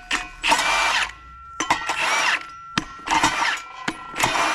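Impact wrench run in four short bursts, about one a second, working engine bolts loose.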